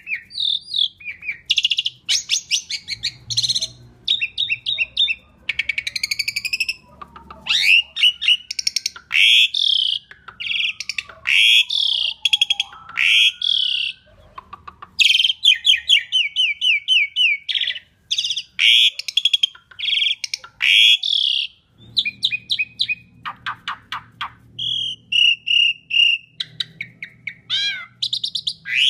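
Asian pied starling (jalak suren) singing at full stretch: a continuous, varied song of loud chattering phrases, rapid repeated notes and trills, with sliding whistles and, near the end, a run of short clear whistled notes.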